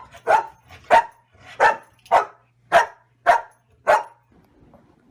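A dog barking repeatedly, about eight barks at roughly two a second, stopping about four seconds in.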